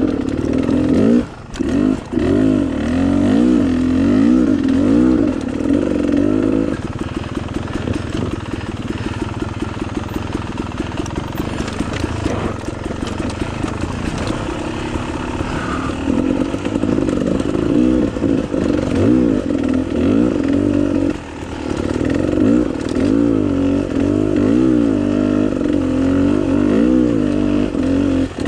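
Dirt bike engine running under changing throttle, revving up and easing off again and again. It pulls hardest in the first seven seconds and again from about sixteen seconds on, with lighter throttle in between.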